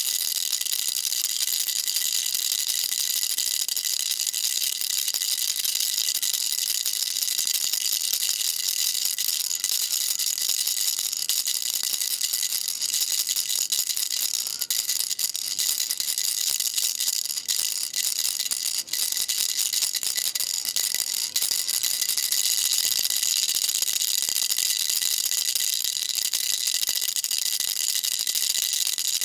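Baby rattle shaken without pause: a steady, unbroken, high-pitched rattling.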